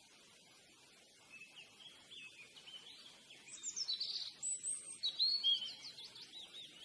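Bird singing a run of quick, varied chirps and whistles over a steady background hiss, loudest in the middle.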